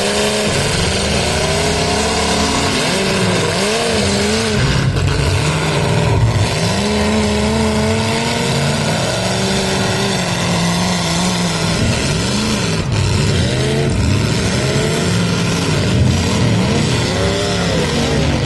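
Several full-size car engines revving up and down at once, their pitches rising and falling over each other, over a loud wash of engine and crowd-arena noise.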